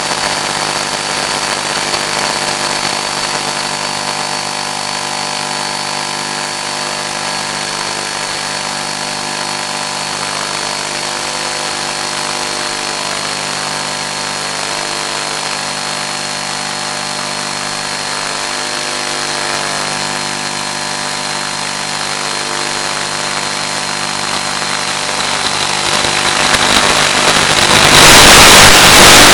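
Steady electronic hum of several fixed tones with a thin high whine on the audio channel of an analog 1.3 GHz FPV video link. About 26 seconds in it swells into loud, even static hiss.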